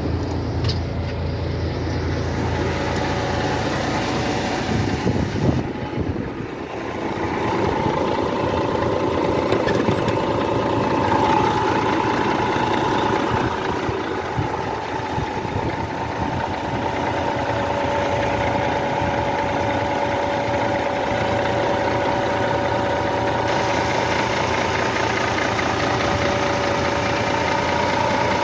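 Diesel engine of a Scania G-Series truck-mounted concrete pump running steadily, with a steady whine that joins in after about seven seconds.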